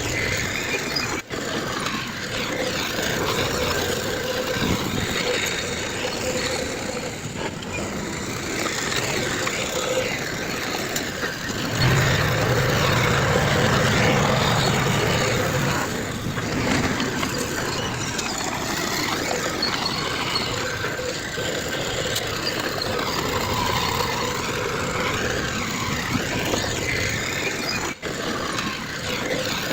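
Heavy diesel construction machinery running steadily, growing louder with more low rumble for a few seconds around the middle. The sound drops out briefly twice, near the start and near the end.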